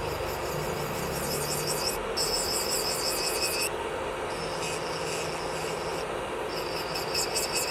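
Electric nail drill (e-file) running, with a high raspy grinding that comes and goes in passes of a second or two as the bit works on the nail.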